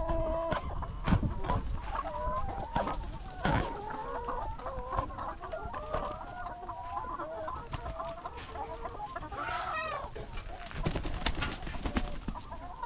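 A flock of laying hens clucking and calling continuously, many voices overlapping, with scattered short knocks among them.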